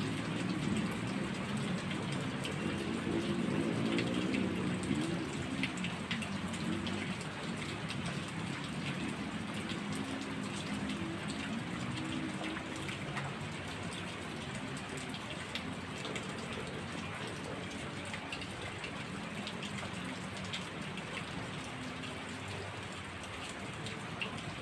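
Heavy rain falling steadily, with many separate drop hits heard close by. A low rumble runs under it through the first half and fades out around the middle.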